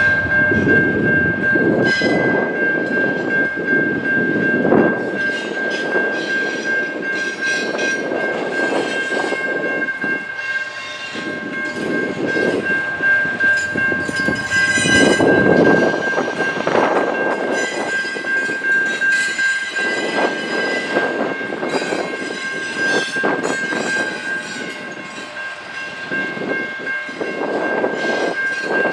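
A train rolling past, its railcar wheels clattering and rumbling over the track in uneven surges. A steady high-pitched tone sounds throughout.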